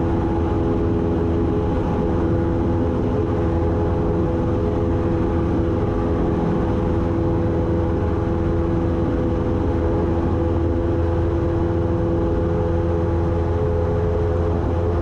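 1972 Cessna 172's single four-cylinder piston engine and propeller droning steadily at climb power just after liftoff, an even low hum with steady overtones.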